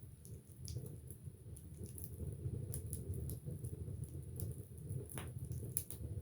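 Wood fire burning in an open fireplace: a low steady rumble of flames with irregular sharp crackles and pops from the burning logs, a few louder pops near the end.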